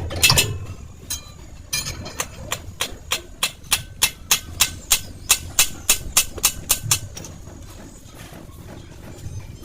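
A quick, even run of sharp metal-on-metal strikes, about four a second, starting about two seconds in and stopping about seven seconds in, from work on a truck's rear wheel hub during bearing play adjustment.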